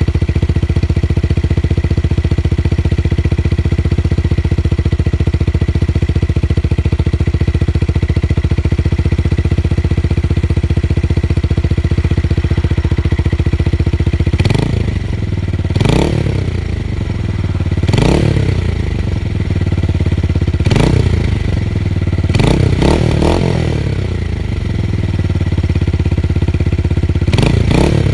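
Tuned motorcycle engine idling steadily, then revved with about half a dozen short throttle blips from midway on. Each blip rises in pitch and falls back to idle.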